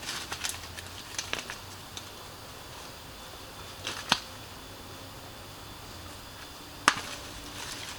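Scattered sharp knocks and scrapes of a tool digging into earth for a dug-in cooking stove. A few come close together near the start, one is clear about four seconds in, and the loudest is near seven seconds.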